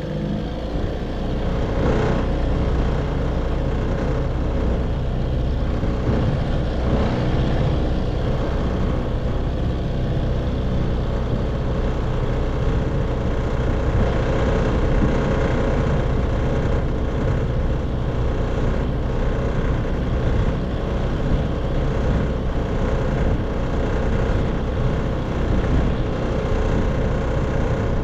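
1958 Evinrude 3 hp two-stroke outboard motor running steadily, a little louder after the first second or two.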